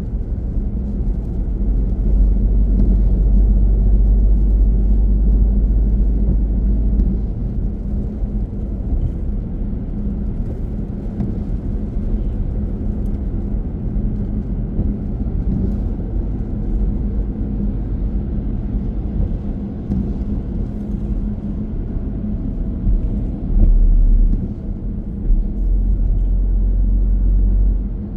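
Car driving on the road: a steady rumble of tyres and engine with a low hum, and heavier deep rumble for the first few seconds and again near the end.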